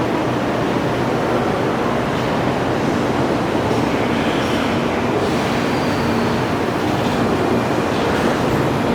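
Freight train hauled by an ED76 electric locomotive, running on the rails with a steady rumble of wheels and wagons, and a faint high wheel squeal about four to six seconds in.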